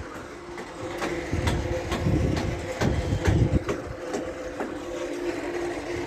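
Footsteps on a hard floor, about two a second, over a low rumble that swells in the middle and a faint steady hum.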